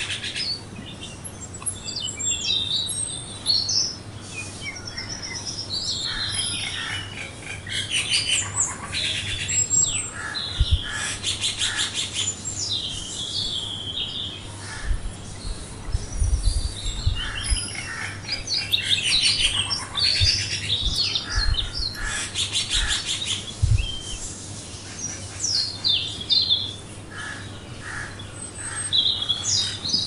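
Several small birds chirping and trilling, their calls short and overlapping throughout, with a few low bumps in the middle.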